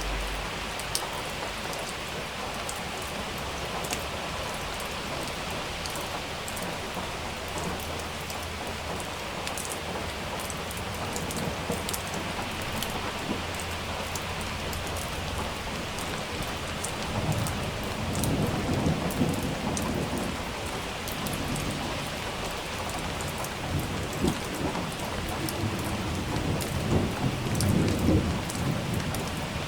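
Steady rain with many sharp individual drop hits, and thunder rumbling low twice: once from about 17 seconds in and again near the end.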